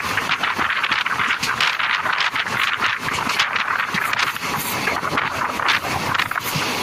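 A passenger train coach running along the track, with a steady rush of wheels on rail and wind buffeting the microphone at the coach window.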